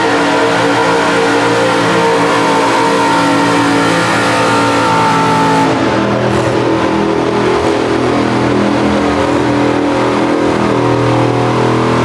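Pulling-truck engines running hard at high, steady revs under load, with the engine note changing about six seconds in.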